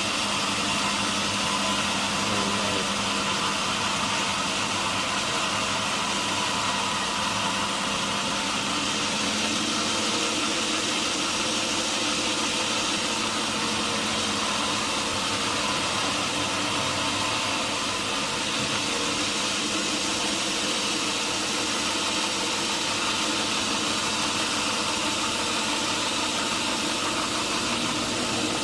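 Sawmill machinery running steadily: a constant engine hum with steady noise, unchanging throughout.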